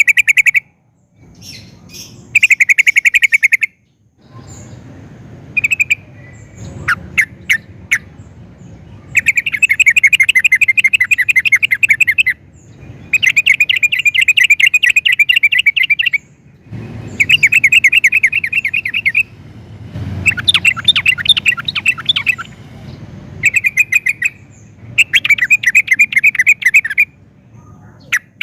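Yellow-vented bulbul (trucukan) singing in full song: bouts of rapid, chattering trills about two to three seconds long, separated by short pauses, with a few single sharp notes between bouts.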